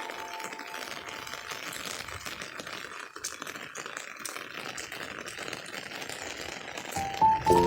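Rain pattering on an umbrella: a dense, steady patter of many rapid drop ticks.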